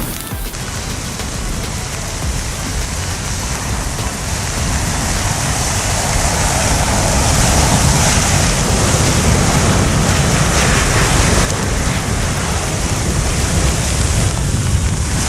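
Steady hissing and crackling of many burning match heads flaring, swelling in the middle and dropping back suddenly a few seconds before the end.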